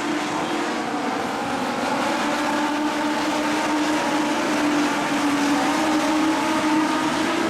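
Legends race cars running on the track, their engines a continuous drone whose pitch climbs slowly as they accelerate.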